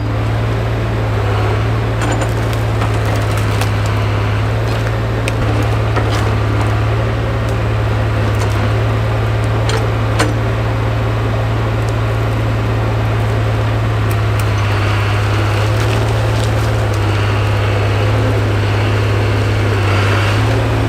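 1968 Atlas excavator's engine running steadily under work, with occasional sharp cracks of wood and brush snapping.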